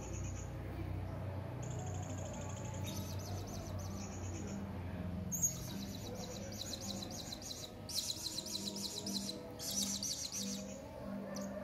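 Serindit (hanging parrot) calling: thin high whistles, then several bursts of fast, shrill, chattering trills, the loudest coming about eight to ten seconds in.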